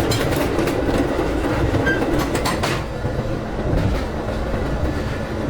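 A moving metro train heard from inside the car: a steady rumble, with clusters of clicks and rattles near the start and again about two and a half seconds in.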